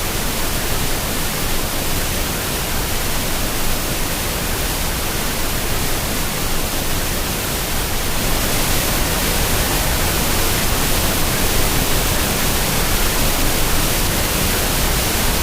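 Steady rush of a high waterfall, a dense even noise that grows slightly louder about halfway through.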